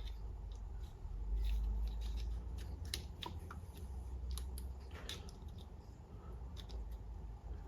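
Scattered small clicks and taps of transmission parts being handled, with a low bump and rumble about a second and a half in.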